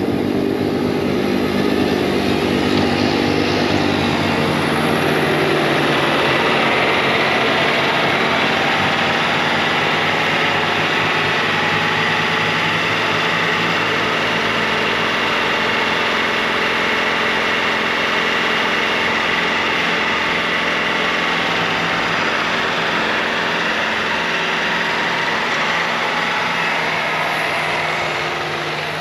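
Bobcat T66 compact track loader's diesel engine running steadily at full throttle while its snowblower attachment throws wet slushy snow, the engine drone joined by a dense rushing hiss from the blower.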